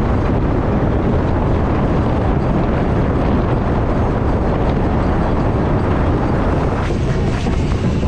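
Steady rumble of wind buffeting the microphone together with engine noise aboard a moving boat.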